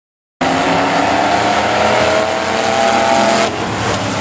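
Demo trucks' engines running hard around a speedway oval, loud and steady, cutting in suddenly about half a second in. About three and a half seconds in the sound drops and turns rougher, with scattered knocks.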